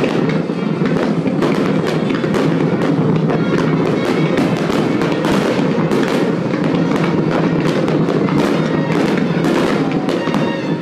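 Fireworks display: a continuous barrage of many aerial shells bursting at once, dense bangs and crackles with no let-up.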